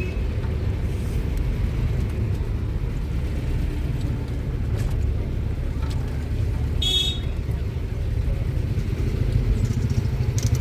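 Steady low rumble of a motor vehicle's engine and road noise, with a brief high-pitched beep about seven seconds in.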